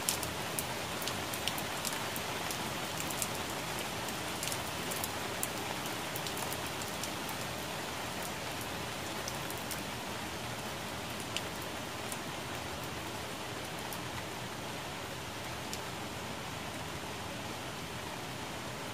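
Rain falling on plant leaves: a steady hiss of rainfall with sharp ticks of single drops striking the leaves. The drop ticks come thick in the first several seconds and grow sparser later.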